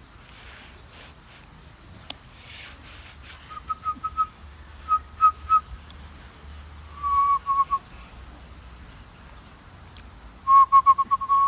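A person whistling groups of short, quick staccato notes in imitation of a laughing kookaburra's laugh. There are four bursts, and the last, near the end, is the fastest and loudest. A few breathy hissing sounds come in the first three seconds.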